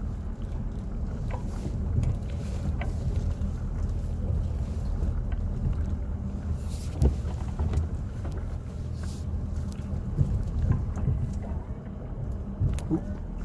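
A 2016 Ford F-250's 6.7-litre Power Stroke V8 turbodiesel runs with a steady low hum as the plow truck backs up, with scattered small clicks and knocks.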